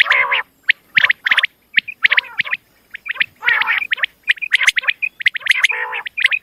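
Female common quail calling: a rapid run of short, repeated call notes, several a second, in bursts with brief gaps between them.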